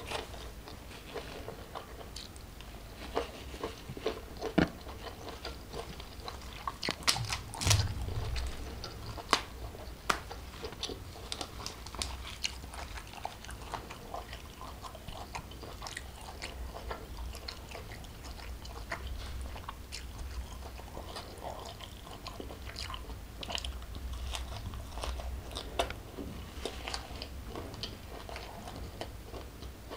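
Close-miked chewing and biting of shrimp, rice and raw salad vegetables, with repeated crisp crunches and small clicks. The loudest run of crunches comes about seven to eight seconds in.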